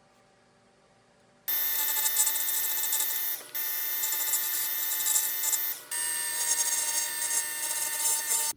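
A power tool running steadily on wood with a whine of several steady tones, starting abruptly about a second and a half in, breaking off twice for a moment and cutting off abruptly.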